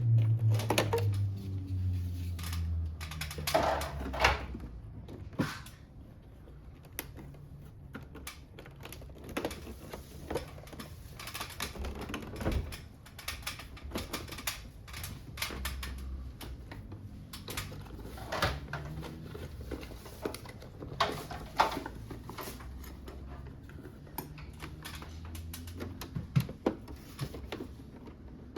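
Scattered clicks, taps and knocks of plastic covers and parts being handled and unclipped while an air conditioner's indoor unit is taken apart, a few of them sharper snaps.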